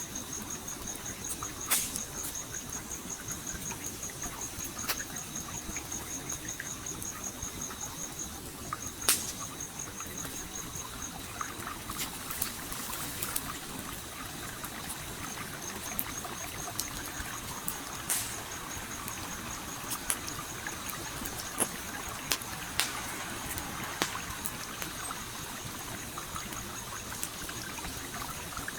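A campfire crackling, with scattered sharp pops, over the steady rush of a flowing stream. A cricket trills throughout in a fast, even pulse, falling silent twice for a few seconds.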